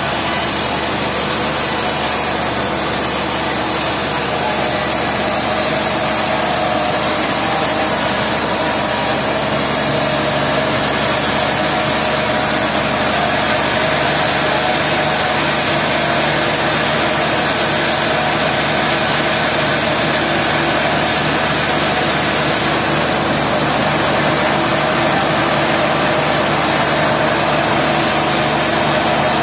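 Sawmill machinery running steadily with an engine's even drone and no break.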